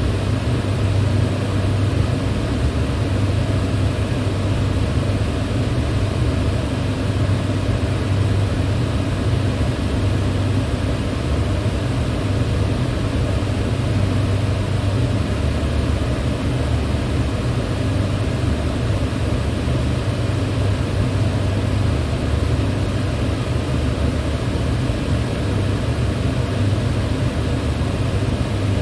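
Electric fan running steadily: an even rushing hum that is strongest in the low range, with no change in speed.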